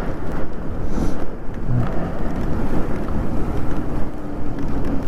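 Wind buffeting the microphone over the rumble of an e-bike's tyres on a wet road while riding. About halfway through, a faint steady hum, likely from the bike's electric motor, comes in and holds.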